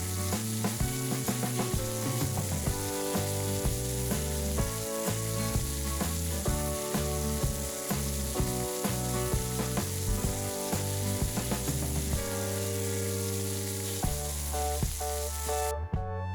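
Food sizzling as it fries in a pan, a steady hiss over background music with a beat; the sizzling cuts off suddenly near the end, leaving only the music.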